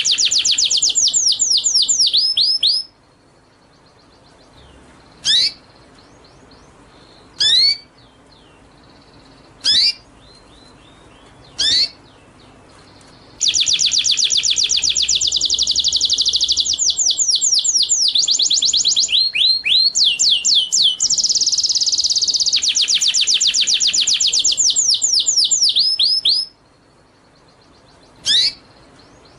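Songbird singing: long, very fast trills of repeated falling notes, broken by single sharp high calls about every two seconds, then a long trill again from about a third of the way in until near the end, with one more single call after it.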